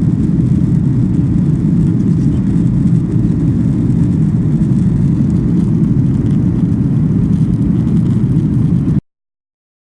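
Steady low rumble of engine and airflow noise inside the cabin of a Boeing 737-800 airliner. It cuts off suddenly near the end.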